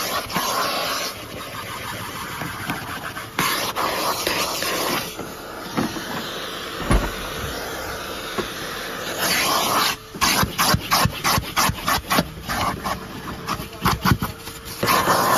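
1997 Numatic Henry vacuum cleaner running with a steady hiss of suction and a faint whine. About two-thirds of the way in, the nozzle starts rubbing back and forth in quick strokes, about three a second.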